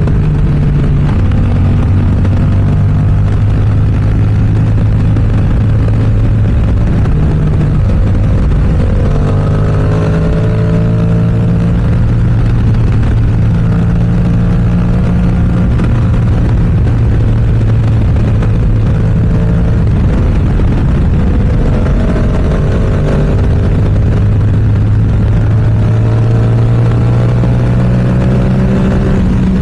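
Yamaha R7's parallel-twin engine through an aftermarket M4 exhaust, running hard under way. Its pitch climbs and steps several times as the bike accelerates and shifts.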